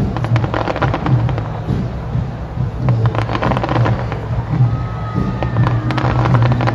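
Fireworks display with dense crackling and popping, many sharp crackles in quick succession, over music with a steady low bass. A faint whistle sounds briefly near the end.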